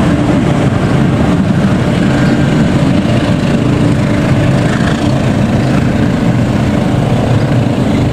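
Passenger train rolling past at close range: its coaches run over the rails with a loud, steady engine drone and rumble, and the last coach goes by near the end.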